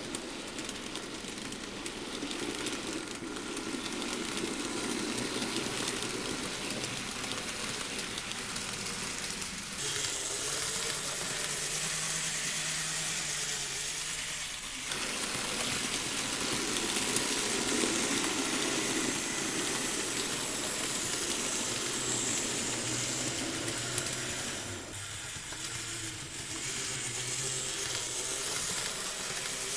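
N gauge model Kintetsu trains running on the layout track: a steady motor hum with wheel and rail noise, changing in strength as the trains move about.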